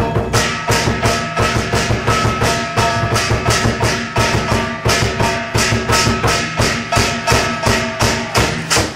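Percussion music with a fast, steady drum beat of about four strikes a second and ringing metallic tones held over it; it cuts off just before the end.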